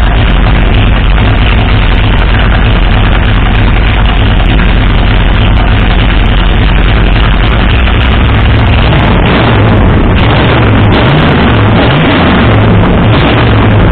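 Big-block 503 cubic-inch Ford V8 with a solid-lifter, big-lift cam running loud and lumpy at idle, its pitch rising and falling a few times in the second half as the revs change.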